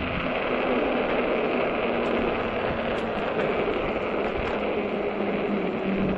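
Steady wind rush over the microphone with a low, even hum, from riding a 48 V fat-tire electric bike.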